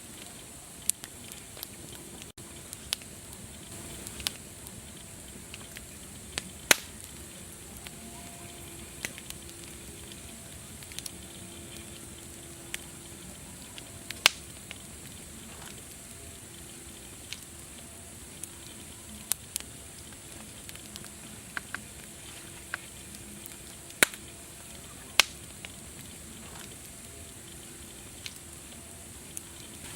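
Wood fire crackling: irregular sharp pops, a second or two apart and some much louder than others, over a steady hiss.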